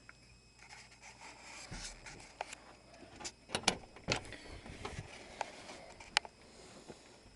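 A series of sharp clicks and knocks over faint rustling, with a cluster of the loudest ones in the middle and a single sharp click near the end.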